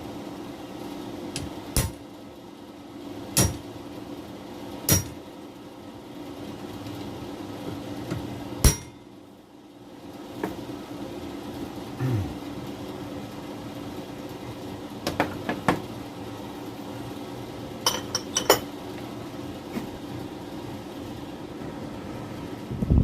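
Sharp metallic clinks and knocks from tools and metal parts being handled during exhaust-wrap work. There are about a dozen of them, scattered and irregular, some close together in quick pairs, over a steady low hum.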